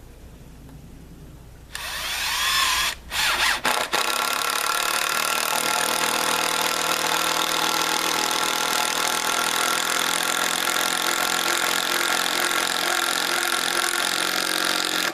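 Power drill spinning up with a rising whine, stopping briefly twice, then running steadily under load until it stops at the end.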